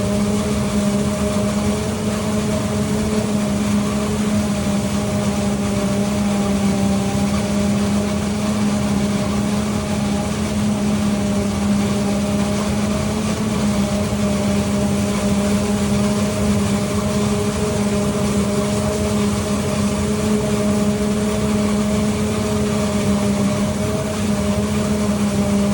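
Heavy harvest machinery running at a constant speed during corn silage chopping: a steady engine and driveline hum with a strong low drone and fainter higher tones, unchanging throughout.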